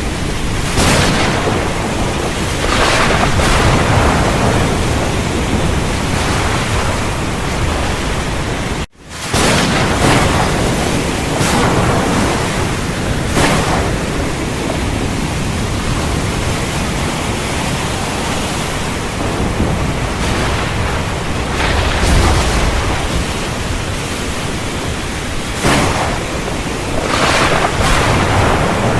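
Heavy rain falling steadily in a thunderstorm, with repeated cracks and rolling rumbles of thunder over it. The sound cuts out for an instant about nine seconds in and then comes straight back.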